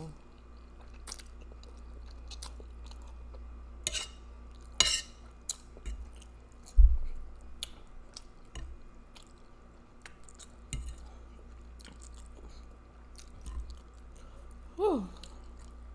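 Close-miked wet chewing and slurping of spaghetti in meat sauce, with many small mouth clicks. There are two louder slurps about four and five seconds in, and a dull low thump near seven seconds. Near the end comes a short hum from the eater that falls in pitch.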